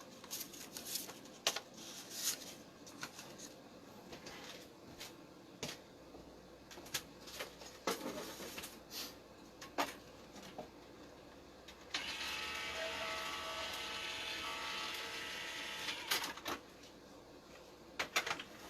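Scattered clicks and taps of handling, then an electric die-cutting machine's motor running steadily for about four seconds as it feeds a die and cardstock sandwich through its rollers.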